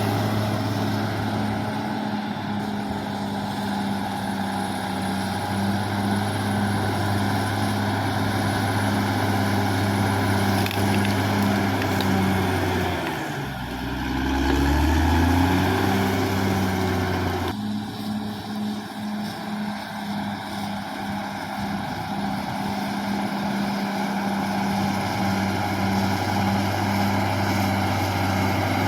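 Caterpillar D6R XL bulldozer's diesel engine running steadily under load. About halfway through, the revs dip and then climb back up.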